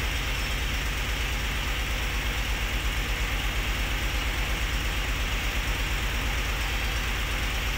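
Nissan Patrol engine idling steadily with an even low pulse. The vehicle has a check-engine light and won't take revs, which the mechanic traces to a VVL control motor fault.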